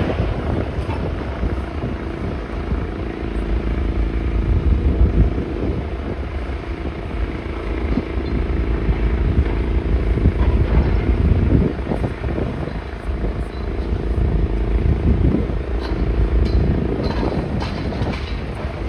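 Heavy machinery engine running steadily with a deep rumble, with a few short knocks in the second half.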